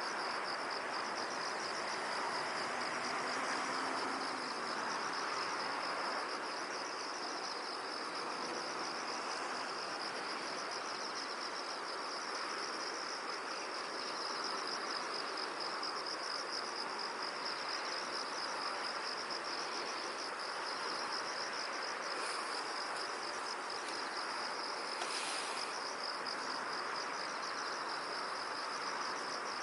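Insects calling in a steady, rapidly pulsing high-pitched chorus, over a constant hiss of ambient noise, with one brief extra sound late on.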